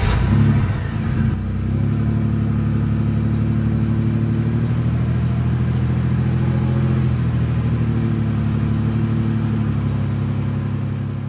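A motor vehicle engine, likely a truck sound effect, starts up loudly and unevenly, then settles into a steady low-pitched run.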